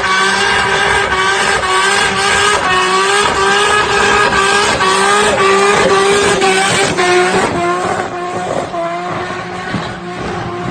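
Turbocharged car engine held at a steady high pitch with rapid crackling pops from the exhaust, typical of a 2-step launch limiter or anti-lag. It eases off slightly in the last few seconds.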